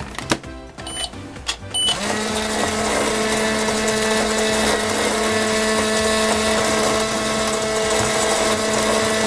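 Toy microwave being loaded and started: a few clicks and knocks and two short beeps, then about two seconds in a steady electronic hum as it runs.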